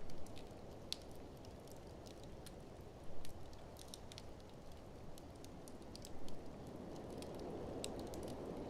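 Wood fire crackling with scattered sharp pops, over a steady low rush of blizzard wind that grows louder toward the end.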